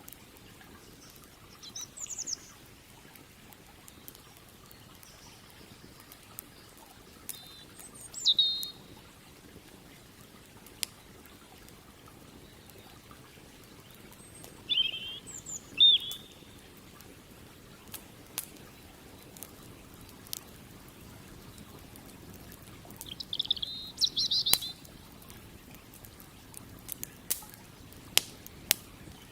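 Campfire crackling with scattered sharp pops, more of them near the end, over a faint steady rush of river water. A bird breaks in with short chirping phrases four times.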